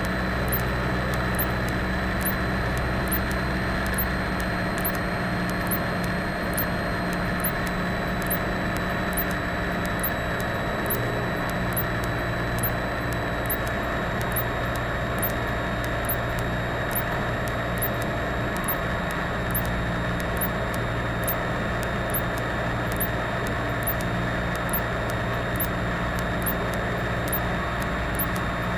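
Cessna 172's piston engine and propeller droning steadily, heard from inside the cabin, with a faint high tick repeating about one and a half times a second.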